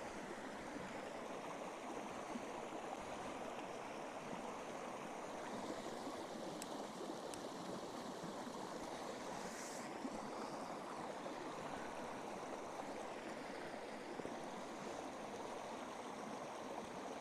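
Steady rushing of running water, with two faint ticks about halfway through.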